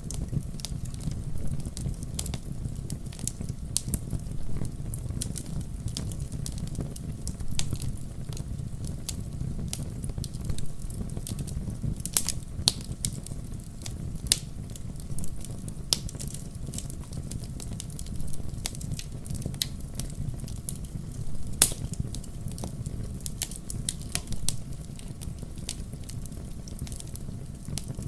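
Wood campfire burning: a steady low rumble of flames with frequent sharp crackles and pops, two louder pops about 12 and 21 seconds in.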